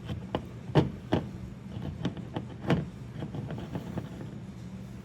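Small chainsaw parts being handled during disassembly: a run of irregular clicks and knocks, loudest in the first three seconds and fading out after about four, over a steady low hum.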